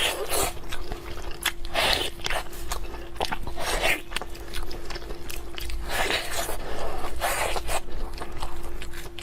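Close-up eating sounds: a person biting and chewing food, with irregular crunches and wet mouth noises. A faint steady hum runs underneath.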